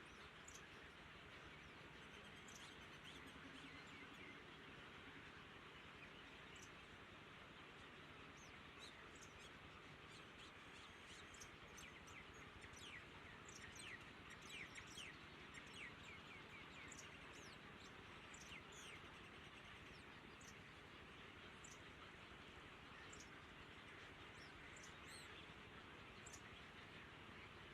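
Faint, high, short bird chirps scattered over a steady outdoor hiss, coming thickest in the middle.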